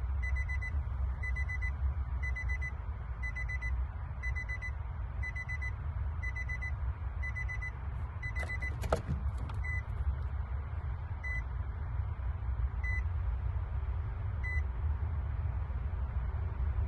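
Electronic warning beeps, short high tones repeating about every 0.8 s, slowing to three more spaced beeps after about ten seconds and then stopping, over a car engine idling high after a throttle body replacement. A single sharp click about nine seconds in.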